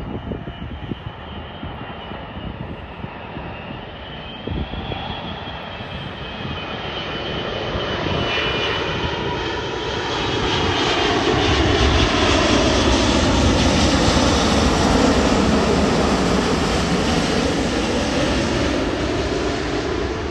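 Emirates Airbus A380's four jet engines on landing approach, a jet roar and whine that swells to its loudest about halfway through as the aircraft passes, then eases off a little.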